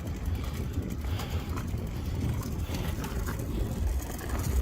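Wind buffeting the microphone during a bike ride, a steady low rumble, with a few faint short chirps above it.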